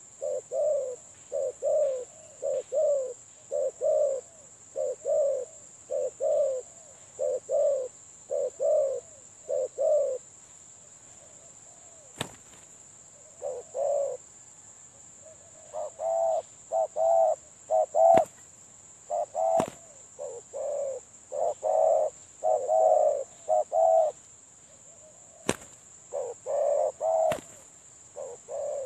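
Spotted doves cooing in runs of short repeated notes; the first run stops about ten seconds in, and cooing resumes a few seconds later, louder and more layered. A few sharp clicks sound in the gaps, over a steady high-pitched whine.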